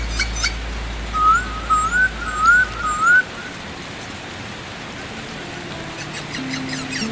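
A bird's whistled call, a run of about five quick rising-and-falling notes lasting about two seconds, over a steady watery hiss. Short chirps come at the start and near the end, and a low drone stops about three seconds in.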